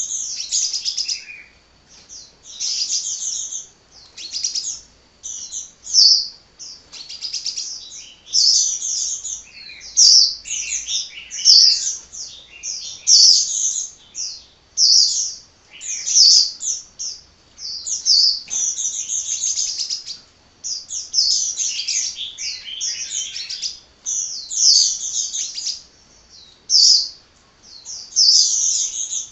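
Sunbird singing without pause: rapid, high-pitched twittering phrases follow one another with only short breaks.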